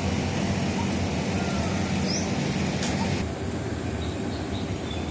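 Steady rumbling background noise, with a few short, high bird chirps over it: a quick rising chirp about two seconds in and fainter short notes later. The hiss drops abruptly a little after three seconds.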